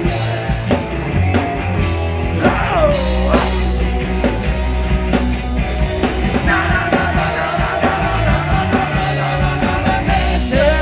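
A cowpunk rock band playing live, with loud drums, bass and electric guitar and some singing.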